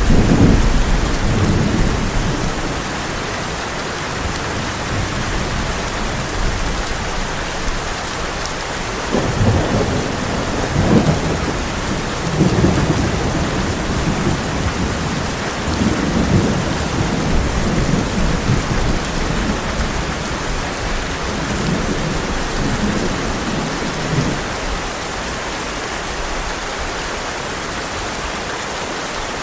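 Heavy rain falling steadily on a tin roof, with thunder rumbling low: one rumble at the very start and a longer run of rolling rumbles through the middle.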